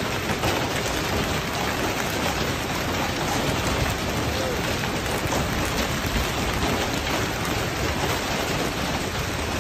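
Heavy storm downpour pelting down on surfaces in a dense, steady hiss and patter.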